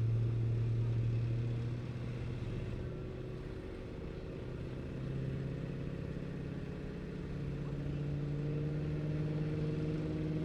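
Truck engine running: a steady drone that drops back about two seconds in, then revs climbing slowly and steadily from about five seconds in.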